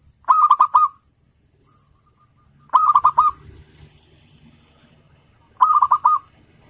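Zebra dove (perkutut) cooing: three short phrases of about four quick notes each, roughly two and a half seconds apart.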